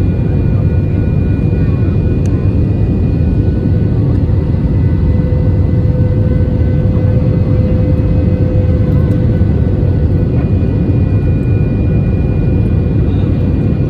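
Jet airliner cabin noise in flight before touchdown: a loud, steady rumble of engines and airflow, with faint steady whining tones above it.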